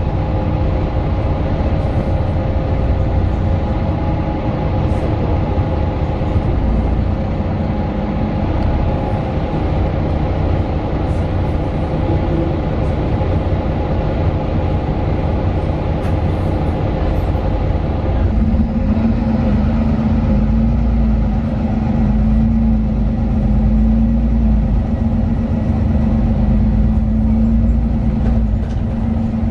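Mercedes-Benz Citaro 2 city bus heard from inside the cabin while under way, its OM 936 six-cylinder diesel and ZF Ecolife automatic gearbox running with steady road rumble. About two-thirds of the way in, a steady hum sets in and holds.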